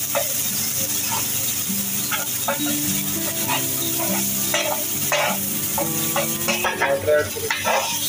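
Chopped onions and ginger-garlic paste sizzling in oil on a large flat griddle (tawa). A slotted metal spatula stirs and scrapes them against the hot surface again and again.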